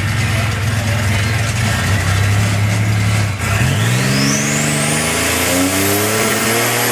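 Buick Grand National's turbocharged V6 running at a steady idle, then about three and a half seconds in it revs up, its pitch climbing in steps with a high whine rising alongside.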